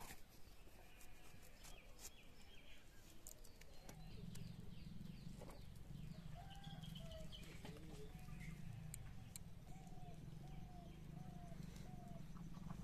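Faint bird calls: scattered high chirps, and from about six seconds in a run of short, evenly spaced calls, roughly one every two-thirds of a second. Under them a low steady hum starts about four seconds in.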